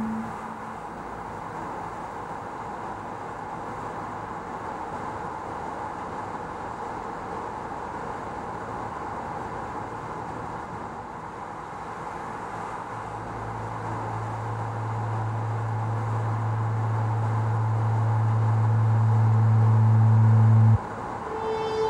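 Steady road and tyre noise of a car driving through a road tunnel. About two-thirds of the way in, a low hum swells and grows steadily louder, then cuts off suddenly just before the end.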